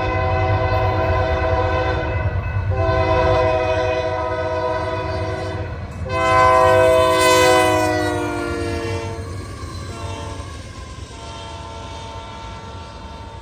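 Union Pacific freight locomotive's air horn sounding three long blasts over the low rumble of the passing limestone train. The third blast is the loudest and drops in pitch as the locomotive goes by, then the horn and train fade.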